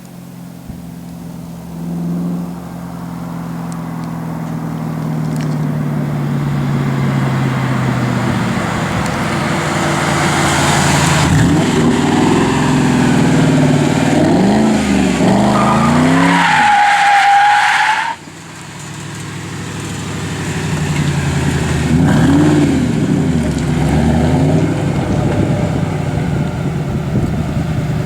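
Ford Mustang V8 engine and exhaust under hard acceleration. The pitch climbs, then rises and falls through several gear changes, with a high-pitched squeal just before the sound cuts off suddenly about 18 seconds in. Another run of revs rising and falling follows.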